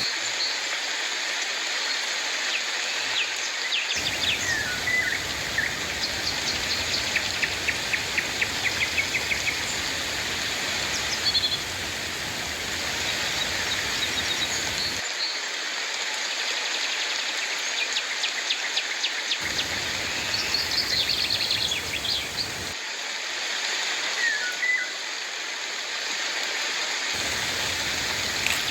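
Steady rain falling, with birds calling over it: scattered chirps, a rapid trill of repeated notes about seven seconds in, and short down-slurred calls.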